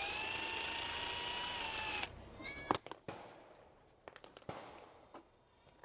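An electric drill runs steadily for about two seconds, then winds down and stops. Scattered light metallic clicks and taps follow as the bicycle rear-hub parts are handled.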